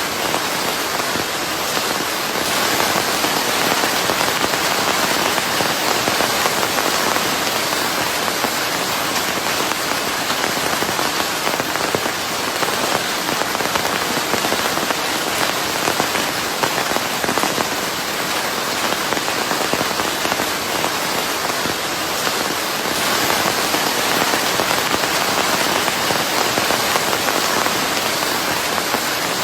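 Steady, heavy rain falling on a surface, a dense even hiss of drops with slight swells in loudness.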